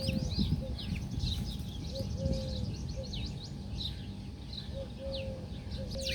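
Many small birds chirping and twittering together in quick, overlapping notes. A low three-note cooing call, short-long-short, repeats about every two and a half seconds. A steady low rumble runs underneath.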